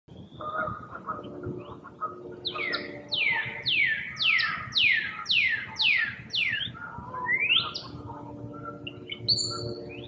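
Woodland birds calling: one bird gives a series of about eight loud, clear downslurred calls at roughly two a second, ending in a single rising call, over softer scattered chirps from other birds.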